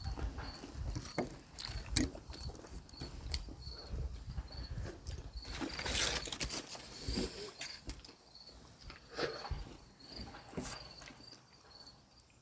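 Chewing and mouth noises while eating a burger, with scattered small clicks and knocks and wind rumbling on the microphone. A faint high-pitched chirp repeats about twice a second through most of it.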